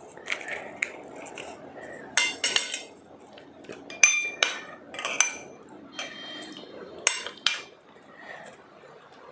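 Dishes and cutlery clinking at a meal: a series of sharp, ringing clinks in small clusters a second or two apart, with softer handling noise between.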